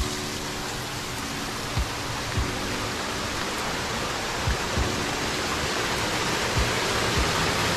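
Waterfall rushing: a steady, even noise of falling water that grows slowly louder toward the end, with a few brief low thumps.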